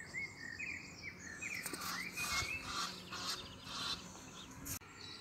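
Small birds chirping, a quick series of short sliding notes repeated over and over, with a few faint steps on brick paving.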